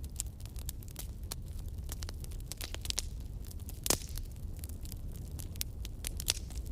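Campfire crackling: a dense run of small pops and snaps, with one louder pop about four seconds in, over a low steady rumble.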